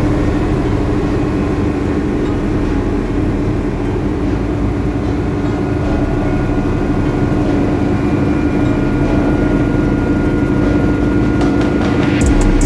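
Schweizer 300 light helicopter's engine and rotor running steadily, a constant loud drone.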